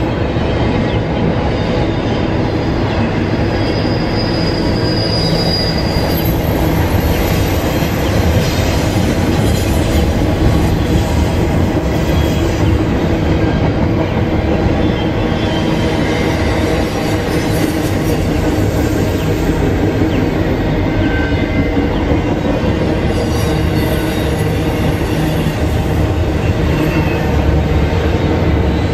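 Double-stack intermodal freight cars rolling past: a steady, loud rumble of steel wheels on the rails. A faint high wheel squeal comes in briefly about four seconds in.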